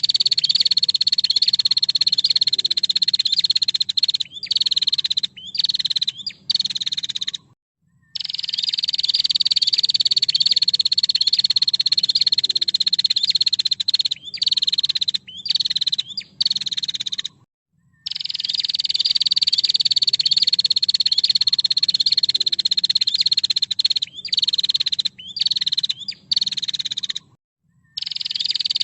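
Female prinia (prenjak) giving its rapid, high rattling trill. Each run lasts about four seconds, sliding slightly down in pitch, then breaks into several short rattles. The identical sequence repeats three times, cut by abrupt gaps of dead silence, as in a looped training recording.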